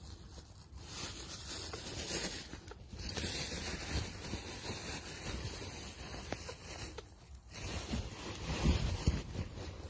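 Rustling and scraping noises with scattered clicks, and a louder low rumble near the end.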